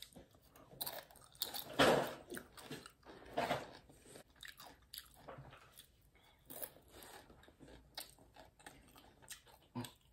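Close-up mouth sounds of a person biting and chewing a tortilla chip dipped in guacamole: irregular crunches, the loudest about two seconds in.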